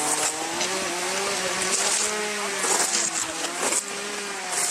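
An engine running, its pitch wavering slightly up and down, with short hissing flares over it.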